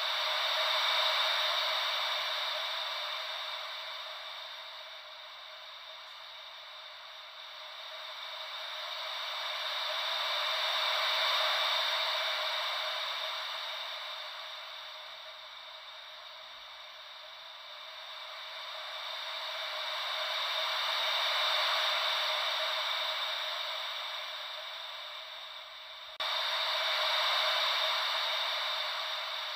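Gentle ocean-wave white noise: a steady hiss with no low rumble, swelling and fading slowly about every ten seconds like waves rolling in, with a sudden jump in level near the end.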